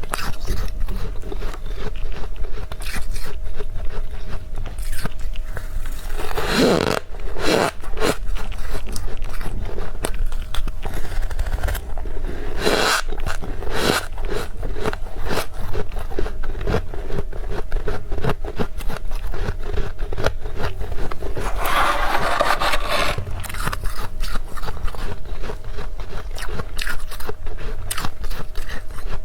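Frost being scraped from a freezer, a dense run of crunchy scraping strokes, with longer, louder scrapes about seven, thirteen and twenty-two seconds in.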